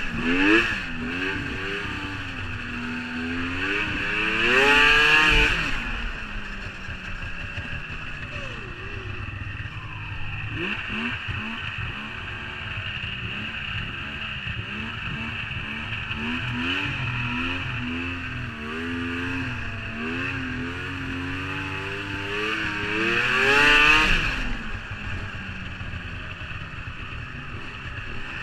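Snowmobile engine running and being throttled up and down through carving turns, its pitch rising and falling, with two loud revving surges, about five seconds in and near the end.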